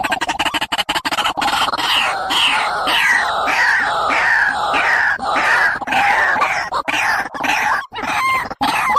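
Bird calls: a rapid run of clicking notes, then a series of loud downward-slurred calls repeated about twice a second.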